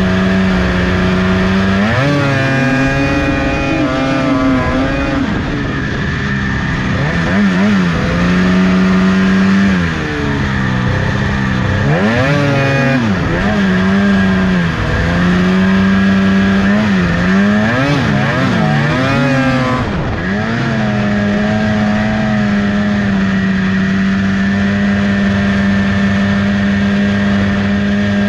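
Lynx RS600 snowmobile's two-stroke engine running, revved up and down again and again for the first twenty seconds or so, then settling to a steady even run.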